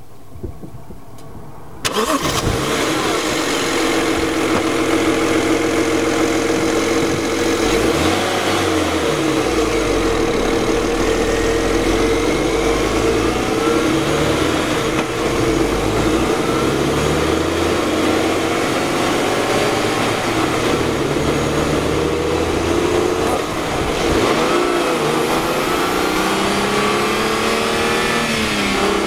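Twin-turbo BMW engine, picked up by a microphone in the engine bay, starting abruptly about two seconds in and then running under load as the car pulls away and drives on. Its note rises and falls with throttle and gear changes.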